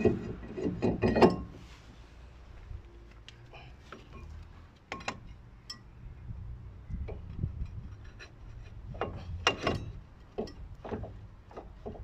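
Scattered knocks and clinks of metal tools and parts being handled during work on a car's front wheel hub, with a quick run of louder knocks at the start and another about three quarters of the way through.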